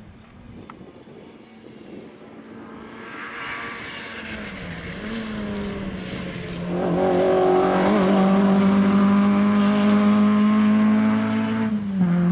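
Rally car engine running, growing louder over several seconds and then holding a steady note, with a brief dip and a slight drop in pitch near the end.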